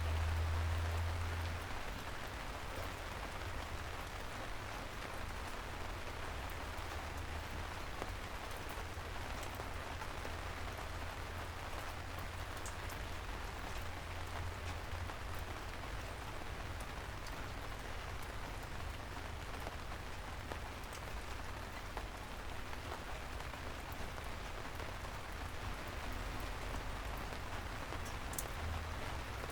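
Steady soft rain falling, an even hiss with scattered drop ticks. A low rumble runs underneath and is strongest in the first second or two.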